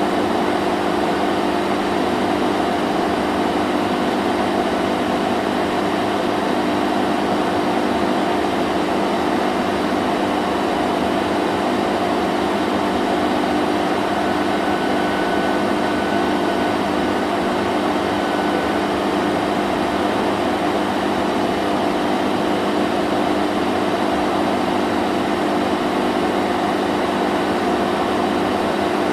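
Vacuum cleaner running steadily, a continuous motor hum under an even rush of air.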